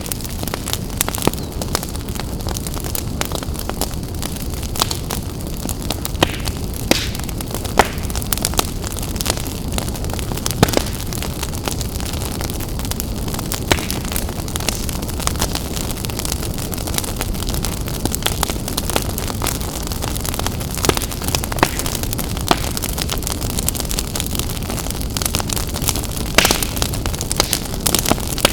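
Fire burning in a fireplace: a steady rush of flames with frequent sharp crackles and pops.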